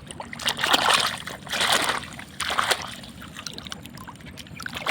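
Water splashing and sloshing in a few short bursts in the first three seconds as toys are rinsed by hand.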